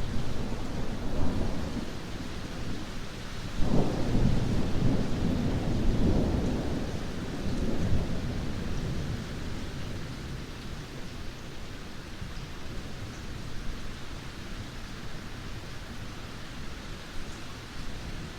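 Thunder rolling over a heavy downpour: a rumble already under way, then a louder peal about four seconds in that rolls on and dies away over several seconds, leaving steady rain.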